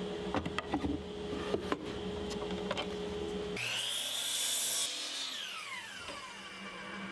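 Light knocks and clicks of wooden boards being handled. About three and a half seconds in, an electric power saw starts, whining up to speed, and its blade cuts through a treated pine 1x4 with a loud hiss for about a second. The motor's whine then falls as the saw winds down.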